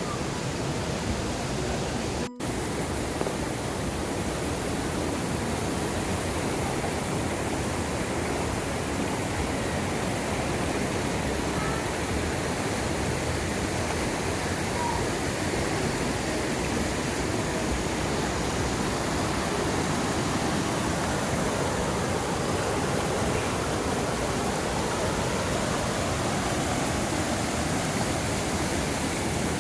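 Mountain stream water rushing steadily over rocks, cut off for an instant about two seconds in.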